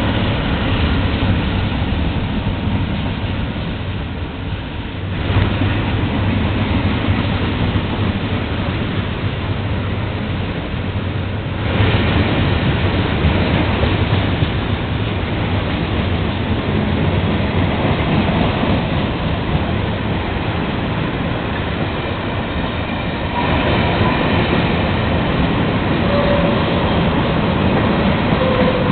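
Freight train cars rolling past on the rails, a steady rumble and rattle of wheels and cars that steps up in level a few times, with a few short wheel squeals near the end.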